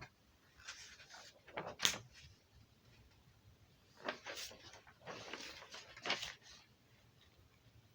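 Faint handling noises: several short, soft rustles, the loudest and sharpest about two seconds in.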